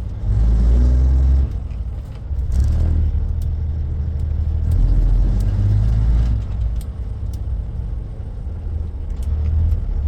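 Peterbilt semi truck's diesel engine running as the truck moves off, its low rumble rising and falling with the throttle.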